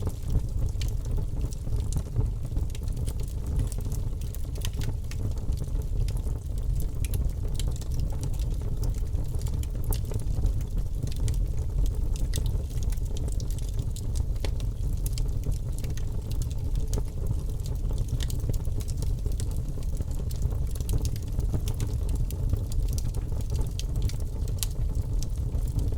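Wood fire burning steadily, with a low rumble under many small, irregular crackles and pops.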